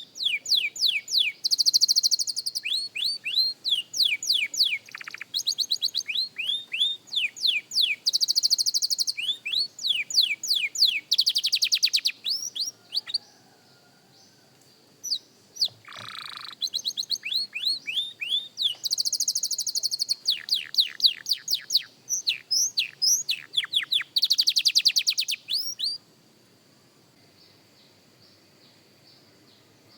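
Young canary singing practice song: quick runs of repeated falling whistled notes and fast buzzy trills. It pauses for about two seconds near the middle and stops for the last few seconds.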